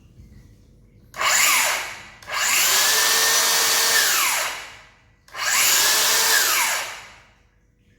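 DeWalt DCS578 cordless circular saw motor switched on and off three times: a short burst, a longer run of about two and a half seconds, then another run, each whining up to speed and winding down when the trigger is released.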